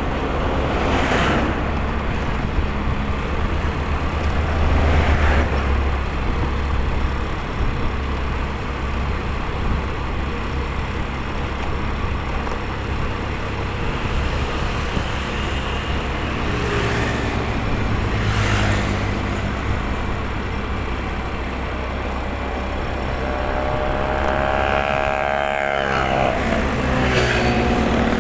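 Road noise from a motorcycle ride: a steady engine rumble and wind rush, with other vehicles passing now and then. Near the end an engine tone falls in pitch.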